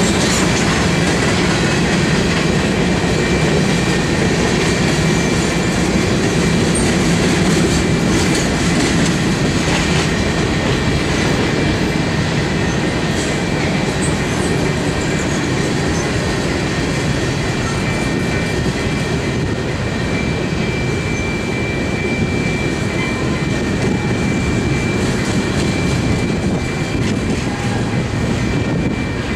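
Freight train of covered hopper cars rolling past at steady speed: a continuous rumble of steel wheels on rail with clickety-clack over the rail joints. A thin, steady high ring sits above it and grows stronger near the end.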